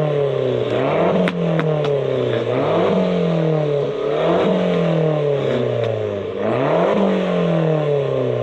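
A car engine being revved over and over, its pitch jumping up quickly and then falling slowly back to idle, roughly every one to two seconds. A few sharp cracks come through about a second in.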